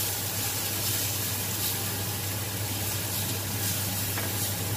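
Minced garlic sizzling in hot oil in a frying pan as it is stirred with a silicone spatula, a steady hiss over a constant low hum.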